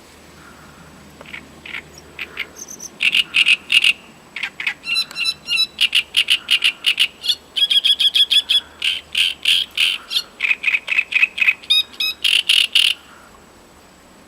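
Great reed warbler singing: a long song of loud, harsh notes delivered in quick repeated groups, starting about a second in and stopping about a second before the end.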